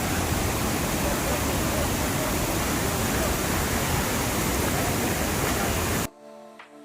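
Steady rushing noise that cuts off abruptly about six seconds in, leaving faint soft music.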